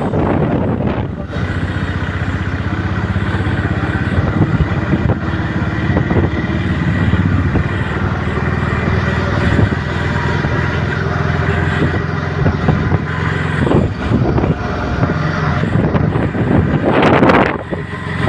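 Road traffic, with a nearby engine running steadily under general street noise. A loud rushing noise comes near the end.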